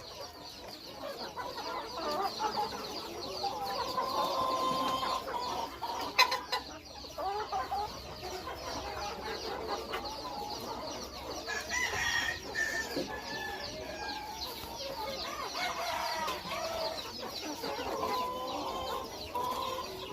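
BB red Phoenix bantam chickens clucking continuously, with a rooster crowing. There is a sharp click about six seconds in.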